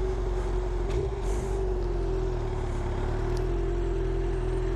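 Inline-four engine of a 2015 Suzuki GSX-R 750 with an Akrapovic slip-on exhaust, running at a steady, unchanging pitch under a constant rushing noise.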